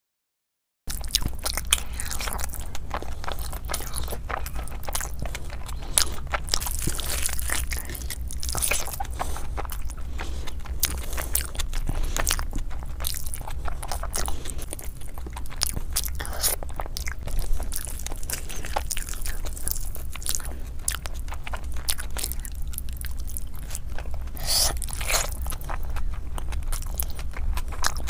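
Close-miked chewing and mouth sounds of a person eating mutton biryani by hand, a dense run of wet clicks and crackles over a steady low hum. It starts just under a second in, after silence.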